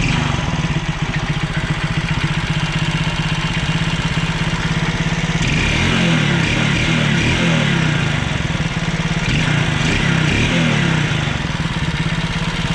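Alpha 110 moped's single-cylinder four-stroke engine running just after a piston and ring replacement, revved up and back down several times from about five seconds in. It runs without the earlier valve-like piston knock.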